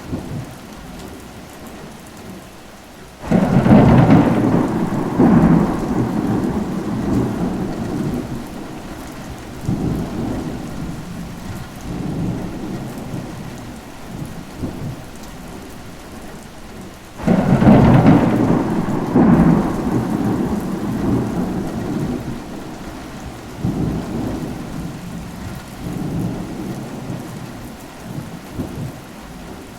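Steady rain with two claps of thunder, one a few seconds in and one just past the middle, each breaking suddenly and rumbling away over several seconds.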